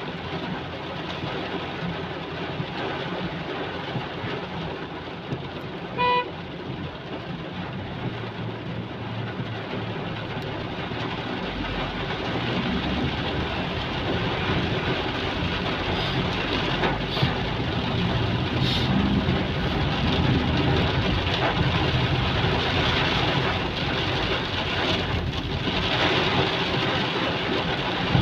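Heavy rain pouring steadily on a city street, with motor traffic passing through the water. A car horn gives one short toot about six seconds in, and a vehicle engine grows louder in the second half.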